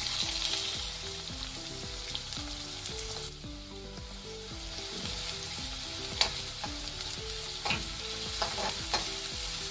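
Sliced shallots sizzling in hot coconut oil in a steel wok, loudest as they go in, then frying steadily. A metal spatula stirs and scrapes against the pan, with a few sharp scrapes in the second half.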